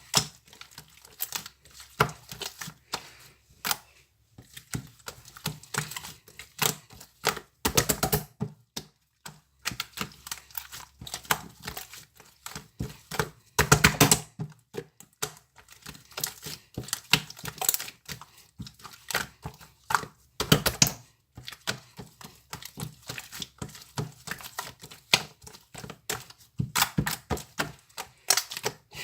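Irregular clicks, taps and knocks of objects being handled at close range, with louder clusters of knocks about 8, 14 and 21 seconds in.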